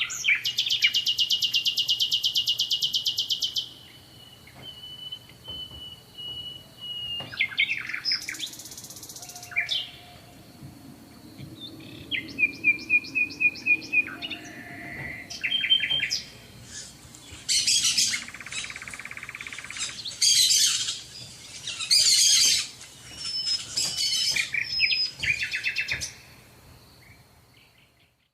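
Songbirds singing: a series of separate high phrases, fast trills, buzzy notes and short whistles, one after another, fading out near the end.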